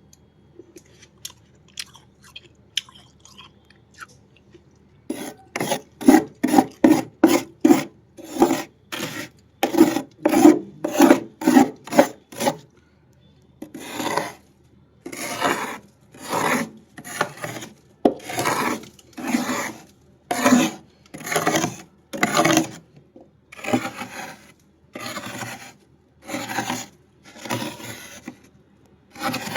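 Crusted freezer frost being scraped in repeated rasping strokes: a few faint ticks at first, then quick strokes two to three a second, then slower, longer strokes about once every second after a short pause.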